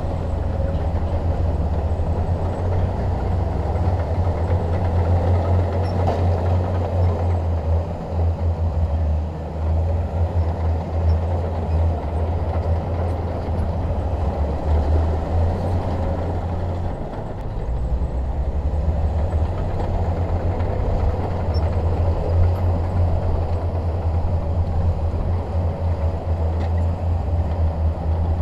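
Bulldozer's diesel engine running steadily with a deep, heavy drone, the level dipping briefly a few times as the load changes.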